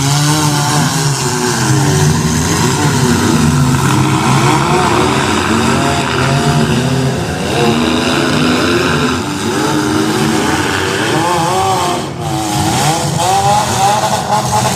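Several demolition derby cars' engines running and revving together, their pitches rising and falling continuously.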